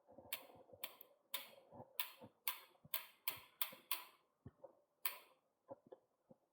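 Sharp, light metallic clicks from a bicycle chain being worked on by hand, about two a second for some five seconds, then a few fainter knocks.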